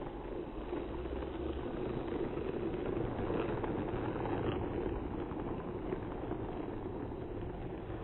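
Battery-powered toy train running along its track: a steady rattling whir from the small motor and wheels, a little louder in the middle.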